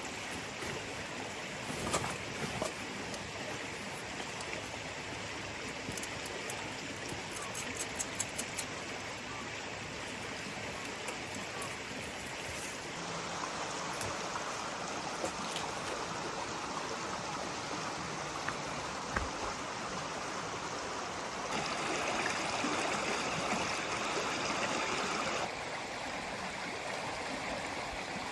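Steady rushing water noise, with a run of small clicks around six to nine seconds in, and a louder, brighter stretch for a few seconds near the end.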